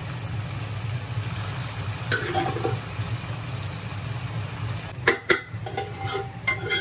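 Hot tadka frying softly in a kadhai as thick blended saag sits on it, over a steady low hum. About five seconds in, a metal ladle starts clicking and scraping against the pan.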